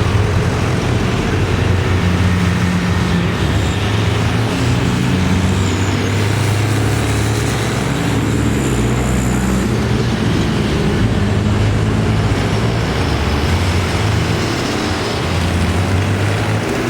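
Tractor engines running as several tractors pass one after another. Their low engine notes overlap and change pitch every few seconds.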